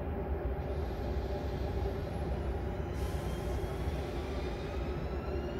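A train running with a steady low rumble. A rising whine, made of several parallel tones, sets in a little after halfway.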